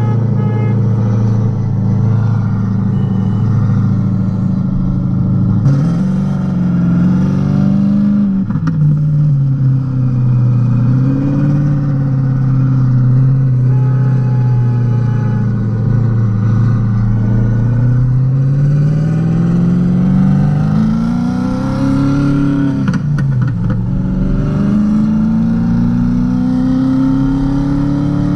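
Modified Renault Kwid 0.8's three-cylinder engine pulling under way. It holds a steady note, then rises in pitch as the car accelerates, drops sharply at gear changes about eight and twenty-three seconds in, and eases down in between before climbing again.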